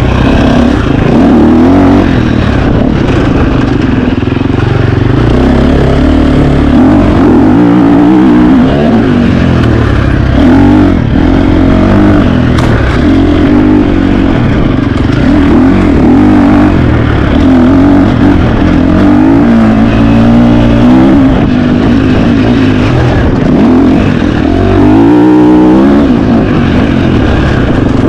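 KTM 350 XC-F single-cylinder four-stroke dirt bike engine, ridden hard, its revs rising and falling constantly through the gears, with a quick rev-up a few seconds before the end.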